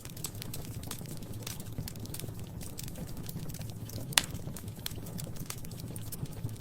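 Wood fire crackling in a fireplace: scattered small pops and snaps over a low steady rumble, with one sharp loud crack about four seconds in.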